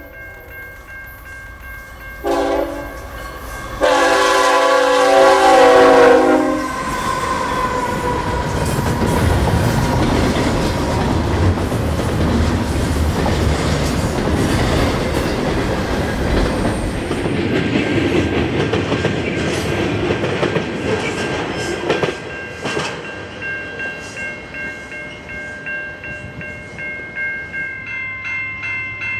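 Canadian National freight locomotive's horn: a short blast about two seconds in, then a long blast of about three seconds. After that a double-stack container train passes close by, with a steady rumble and wheels clattering over the rail joints.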